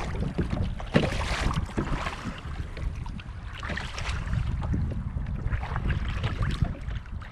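Kayak paddle strokes splashing in the water, about three strokes a couple of seconds apart, over a steady rumble of wind on the microphone.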